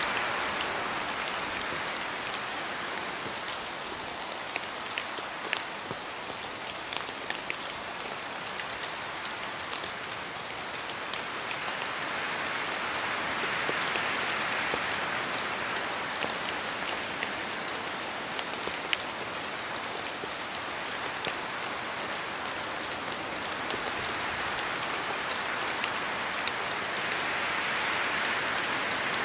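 Steady rain falling in a forest, with individual drops ticking sharply through the hiss. The rain swells and eases in slow waves about every 14 seconds.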